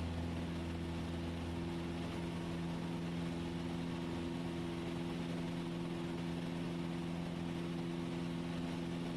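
Cessna 172S's four-cylinder Lycoming engine and propeller droning steadily at climb power during a go-around after an aborted landing.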